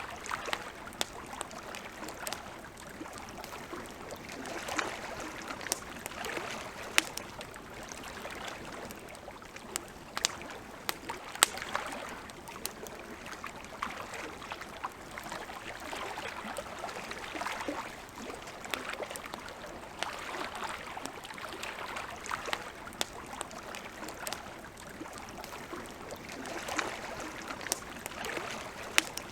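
Wood campfire crackling: irregular sharp pops and snaps, a few louder than the rest, over a steady soft hiss.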